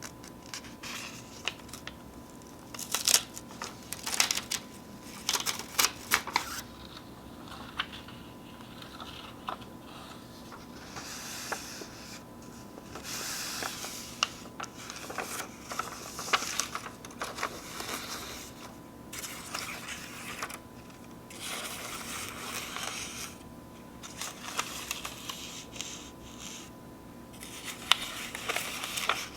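Sheets of paper torn by hand close to the microphone, in a series of rips with crinkling handling between them. There are sharp crackly tears in the first few seconds, then longer drawn-out tears.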